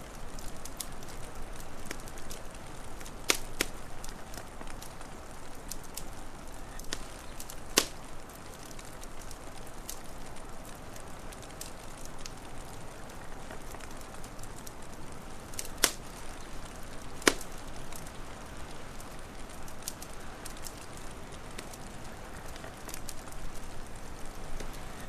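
Wood fire crackling: many small snaps and four louder, sharp pops over a steady hiss.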